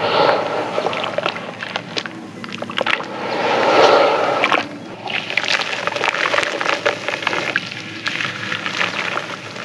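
Soft, crispy clay chunks crumbling in water, crackling with many small sharp snaps over a wet, sloshing hiss. The wet sound swells louder about four seconds in.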